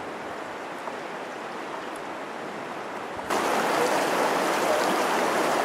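Steady rush of water and wind noise on a jet boat running up a glacial river, with no clear engine tone. About three seconds in it suddenly becomes much louder and harsher and stays that way.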